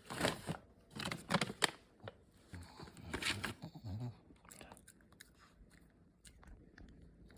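A Shih Tzu crunching and chewing a hard dog treat. There are several loud crunches in the first few seconds, then softer chewing.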